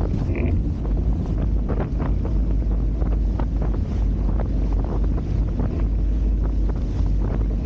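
Heavy wind buffeting the microphone over water rushing and splashing against the hulls of a Hobie Tiger F18 catamaran under sail, with frequent short splashes.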